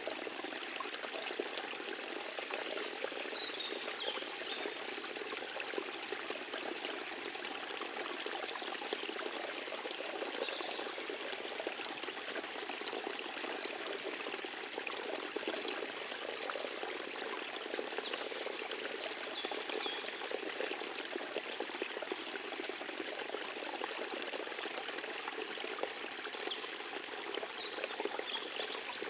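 Forest stream trickling, a steady even rush of running water.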